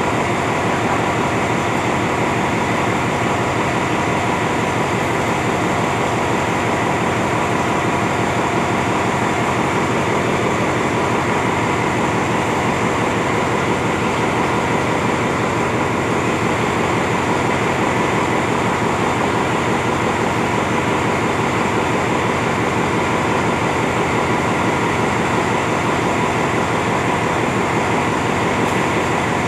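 Coaches of a State Railway of Thailand rapid passenger train rolling past on the rails: a steady, unbroken rumble of wheel and rail noise.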